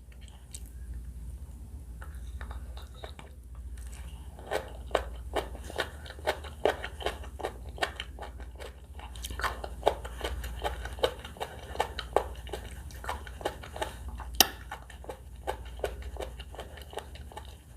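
Close-miked chewing of sushi and salad: a quieter start, then from about four seconds in a steady run of crisp, moist crunches, about two to three a second, with one sharper crack near the end, over a low steady hum.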